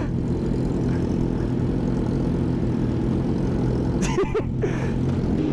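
Sport motorcycle engine running at a steady cruise with no revving, heard from on the bike.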